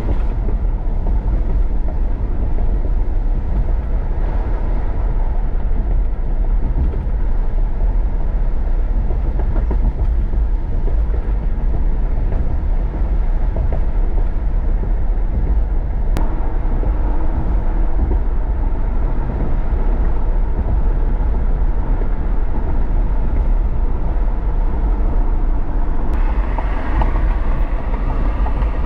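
Strong wind buffeting the microphone: a loud, steady low rumble, with a higher hiss building near the end.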